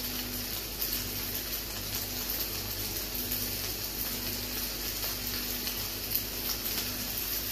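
Macaroni and turkey breast sizzling steadily in a hot frying pan, with small crackles and a low steady hum underneath.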